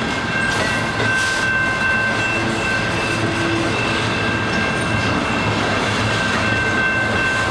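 Train rolling past on the rails: a steady rumble and rattle of wheels, with a few high steady whining tones running over it.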